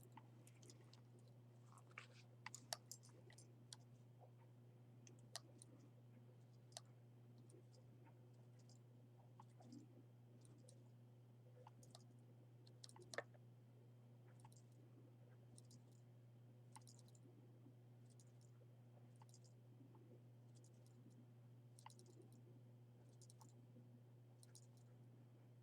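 Near silence: a faint steady low hum, with scattered faint small clicks and handling noises.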